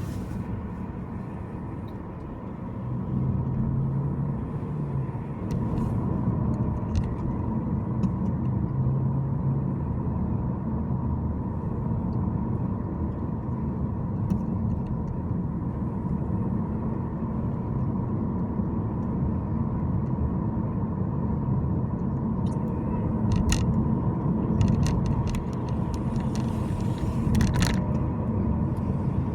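A car driving, with a steady low rumble of road and engine noise that gets louder about three seconds in. A few short clicks come near the end.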